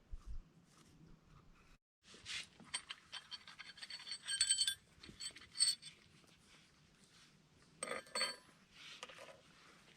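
Metal camp cookware and utensils clinking and scraping, with short ringing clinks in a busy run and a second brief cluster later on.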